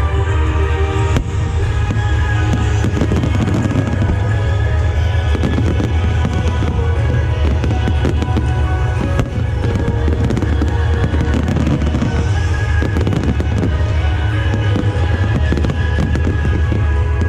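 Aerial fireworks bursting and crackling in quick succession over loud music played for the show.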